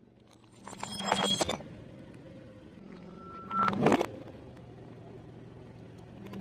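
Two loud crunchy bites of fried food, about a second in and again about four seconds in, over a steady low hum.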